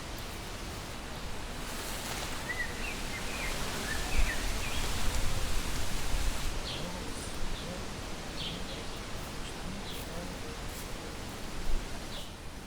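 Outdoor ambience: a steady rushing noise that swells for a couple of seconds in the middle, with a few short bird chirps.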